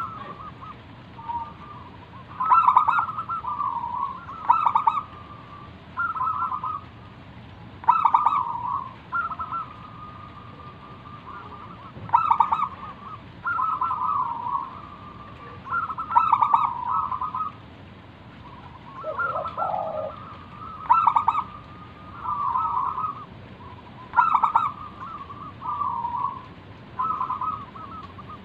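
Zebra dove (perkutut) singing its repeated cooing song: phrase after phrase about every two seconds, each a rapid stutter of notes running into a drawn-out coo. A single lower call comes in about two-thirds of the way through.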